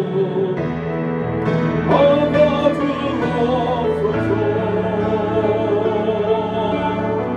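Church music: a voice sung with vibrato over steady held accompanying chords, the style of a hymn or gospel song.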